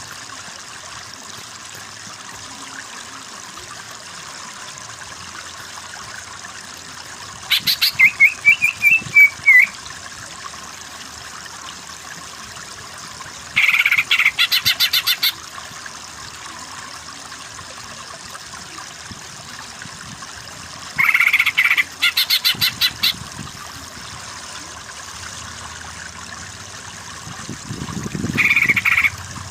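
Greater green leafbird (cucak ijo) singing in four short bouts of rapid repeated notes over a steady trickling stream.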